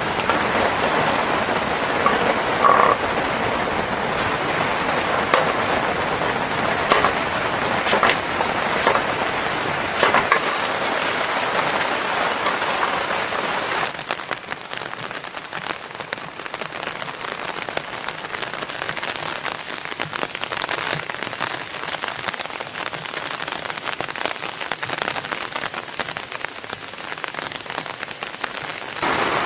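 Steady rain falling, with a few sharp pops in the first half. About halfway through the sound changes abruptly to quieter, lighter rain.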